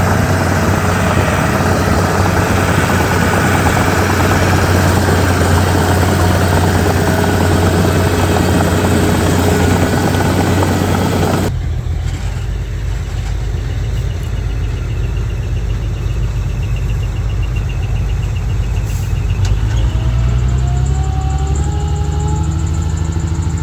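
Diesel engine of heavy earthmoving machinery running steadily. About halfway through the sound cuts abruptly to a lower rumble, and near the end rising tones come in as the engine revs.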